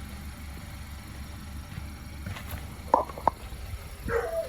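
Car engine idling with a steady low hum. Two short, sharp chirp-like sounds come about three seconds in, and a brief rising-and-falling whine comes near the end.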